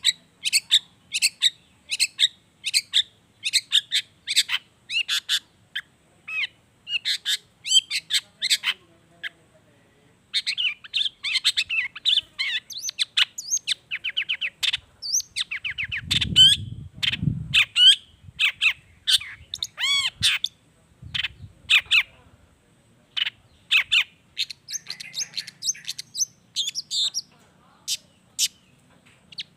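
Long-tailed shrike (cendet) singing a varied song of short, sharp notes, at first spaced about two a second. After a brief pause it breaks into a dense, rapid run of mixed notes. A brief low rumble sits under the song in the middle.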